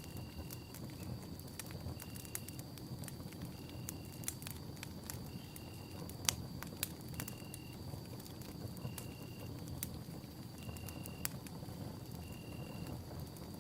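Campfire crackling, with irregular sharp snaps and pops over a low rumble of burning wood. The loudest pop comes about six seconds in. Behind it a short high chirp repeats about every second and a half to two seconds, over a faint steady high whine.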